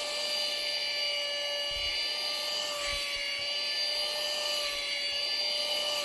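Cordless handheld mini vacuum cleaner running: a steady, high-pitched motor whine with a hiss of air.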